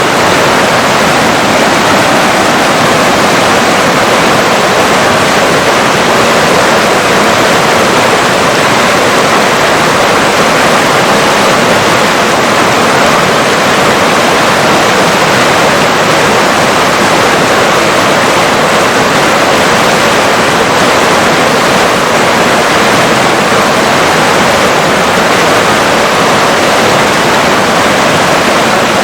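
River water rushing steadily, a dense even hiss of flowing water with no breaks.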